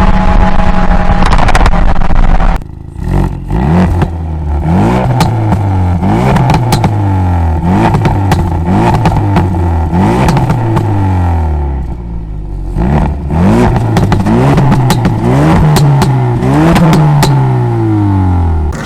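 Ford Focus RS Mk3's turbocharged 2.3-litre four-cylinder through a Bull-X Ego-X exhaust. A loud steady rush cuts off about two and a half seconds in. Then the engine is revved again and again, each rev rising fast and falling away more slowly, with exhaust pops and crackles as the revs drop.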